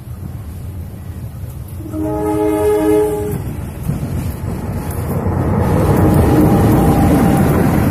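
CC 203 diesel-electric locomotive sounds its horn for about a second and a half, then its engine and wheels rumble louder and louder as it hauls the Serayu passenger train close past.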